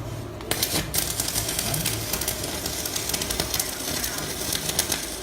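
Stick-welding arc from an Alisen MMA 420A inverter welder burning a 4 mm electrode: a steady, dense crackle that starts about half a second in.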